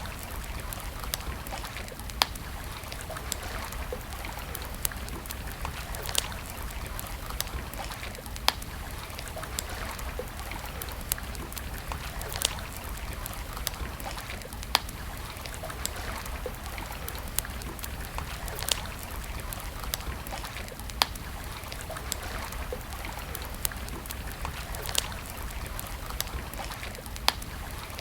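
Wood campfire crackling: sharp single pops every second or two over a steady hiss.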